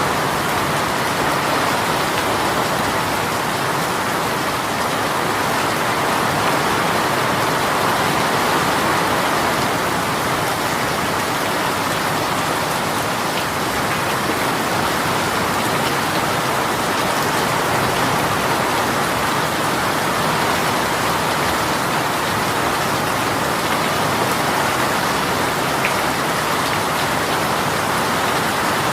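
Heavy rain shower pouring steadily, a dense even hiss of rain falling on a surface.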